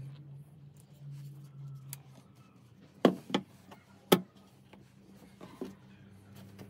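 A few short, sharp clicks or knocks of hard objects, three close together about three to four seconds in and a softer one near the end, over a faint low hum.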